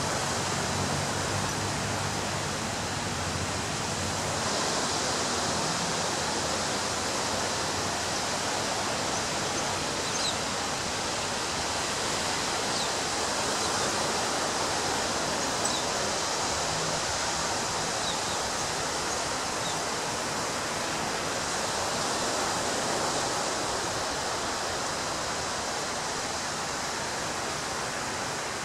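Ocean surf breaking and washing on a beach: a steady rush of noise that swells gently every several seconds.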